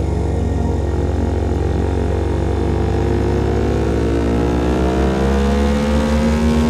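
CFMOTO Papio SS single-cylinder engine running through a KO Lightning slip-on exhaust while riding. Its pitch rises steadily through the second half as the bike accelerates in gear.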